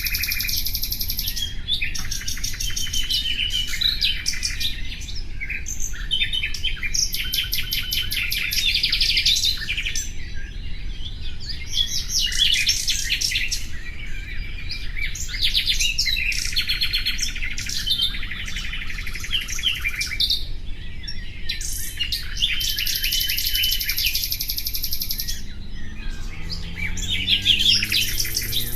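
Common nightingale singing: a string of varied phrases, each a second or two of rapid trills and repeated high notes, with short pauses between them.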